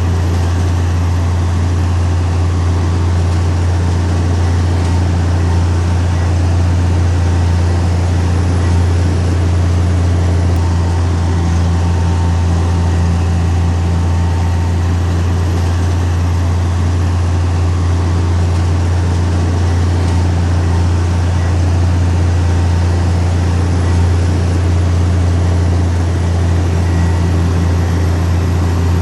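Heavy diesel earthmoving machinery running steadily, a deep even engine hum that holds without a break.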